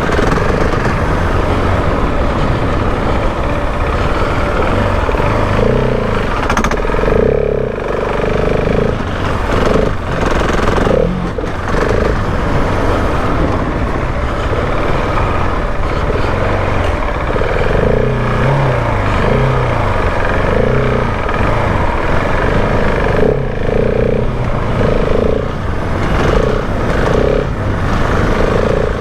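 Husqvarna 701 Enduro's single-cylinder four-stroke engine running under riding load, its pitch rising and falling over and over as the throttle is opened and closed through the track's corners and straights.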